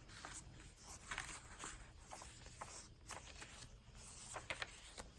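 Faint rustling and soft scraping of paper and card being handled, with a few brief louder rustles, as pages and tags of a handmade paper journal are moved.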